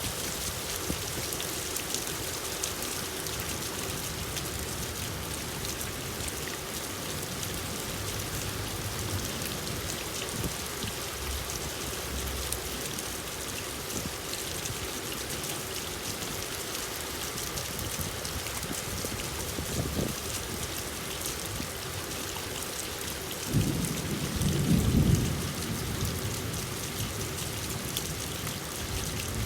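Steady heavy rain falling, a dense patter of drops over an even hiss. About three-quarters of the way through, a low rumble of thunder swells for a couple of seconds, the loudest moment.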